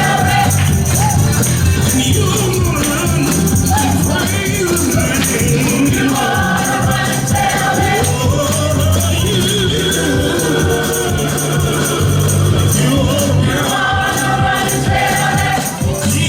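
Gospel music with a choir singing over a steady beat and tambourine.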